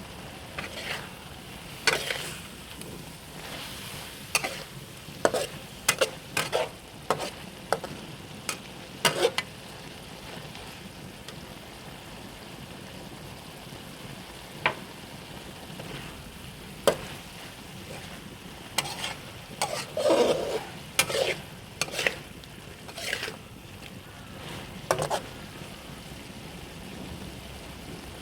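Food sizzling in a pan, with a cooking utensil stirring, scraping and knocking against the pan at irregular intervals.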